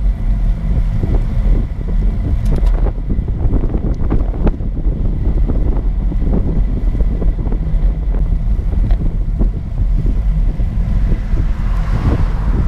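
Wind buffeting the microphone while cycling, a steady loud low rumble, with a few scattered light clicks.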